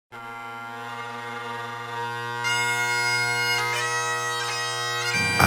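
Bagpipe music: the steady drones start alone, and the chanter's melody comes in about two and a half seconds in. A low sound joins just before the end.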